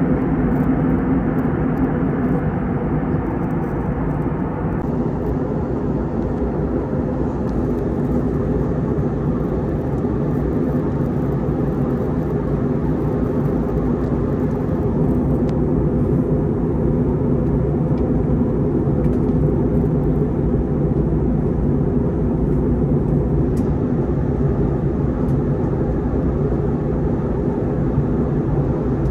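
Steady, even noise of a jet airliner in descent, its engines and airflow making a continuous rumble with a steady low hum; the upper hiss eases slightly about five seconds in.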